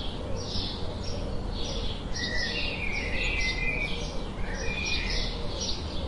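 Several birds chirping, short calls about twice a second, with clearer whistled notes joining from about two seconds in, over a steady low background noise.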